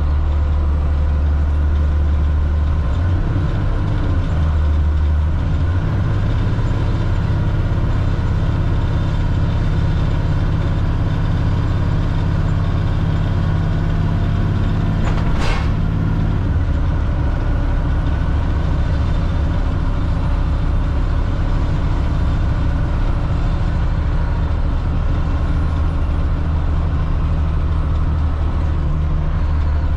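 Caterpillar C7 inline-six diesel of a Blue Bird All American school bus running steadily on the road, heard from the driver's seat; the pitch of its low drone shifts a few times as engine speed changes. A single sharp knock comes about halfway through.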